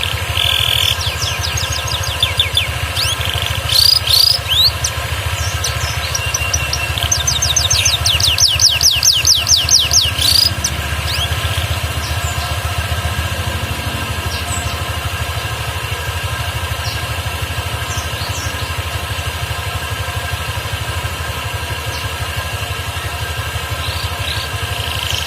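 Canary singing in short bursts of chirps and fast trills during the first ten seconds or so, then mostly quiet, resuming song after a spell of not singing. A steady mechanical hum runs underneath.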